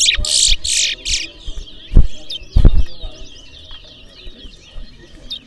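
Caged towa-towa (chestnut-bellied seed finch) singing: a loud burst of bright, high song in the first second or so, then softer twittering and warbling. A few loud, short thumps come around the middle.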